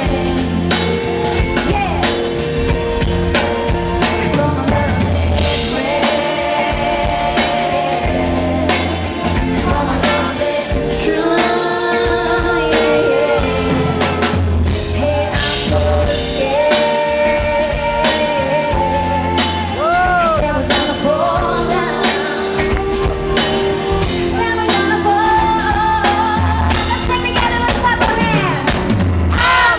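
Live pop concert performance: a band with drum kit and bass playing under sung vocal lines.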